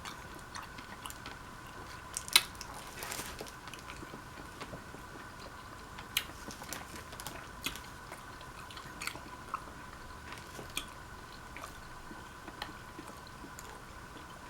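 Close-up mouth sounds of a person chewing a Spicy Italian sub sandwich: soft, wet clicks and smacks scattered throughout, with a sharper click about two seconds in, over a faint steady hum.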